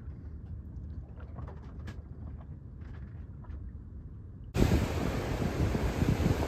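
Low steady rumble of the sailboat motoring slowly, with a few faint clicks. About four and a half seconds in it cuts off abruptly into loud wind buffeting the microphone over the sound of water and waves.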